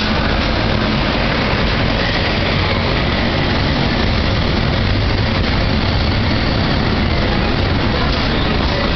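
Italian FS diesel-electric locomotive running as it pulls in past at close range, followed by a train of vintage passenger carriages rolling by with the steady noise of wheels on rails.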